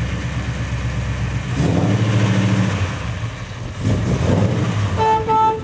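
Car engine running and being revved twice, the first rev about a second and a half in and the second about four seconds in, followed by two short beeps near the end.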